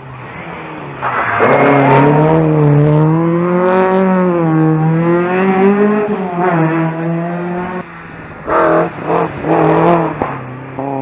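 Rally car engine at high revs with its pitch wavering up and down as the car is held sideways through a corner, then three short bursts of throttle near the end before it settles to a steadier note.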